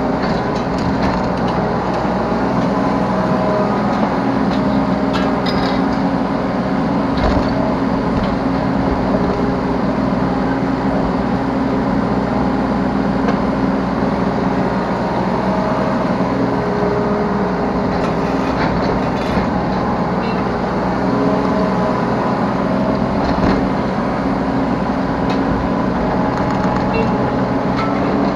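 Yanmar B3 Sigma mini excavator's diesel engine running steadily under working load. Hydraulic whine lines come and go as the controls are worked, and a few knocks, the loudest about seven seconds in, punctuate it.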